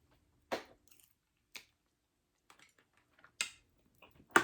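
Close-miked chewing of a mouthful of food, heard as a few short, sharp wet mouth smacks spaced about a second apart.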